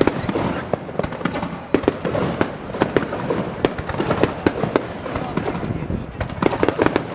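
Fireworks display going off: a dense, rapid run of bangs and crackles.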